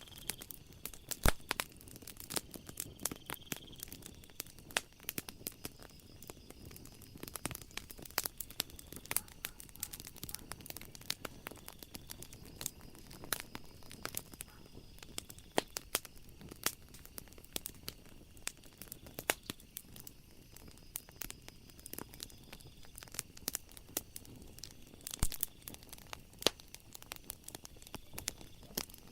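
Wood fire crackling, with frequent sharp pops and snaps of burning logs, the loudest about a second in and again near the end. A faint steady chirring of night insects runs underneath.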